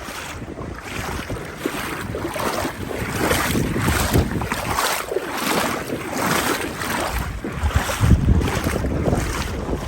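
Strong wind buffeting the microphone in gusts, a rushing, rumbling noise that swells and eases every second or so.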